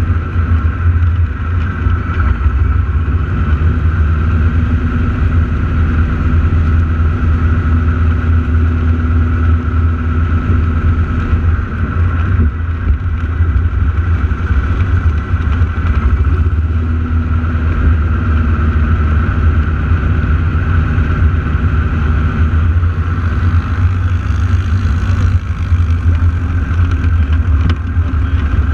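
Radial engines of North American T-6 Texan aerobatic planes droning steadily in flight, their pitch shifting slowly as the planes manoeuvre, over a heavy low rumble.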